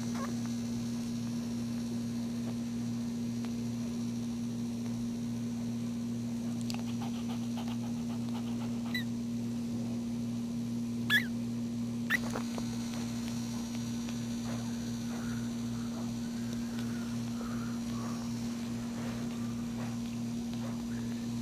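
Newborn puppies giving a few short, high squeaks about halfway through and fainter whimpers near the end, over a steady electrical hum.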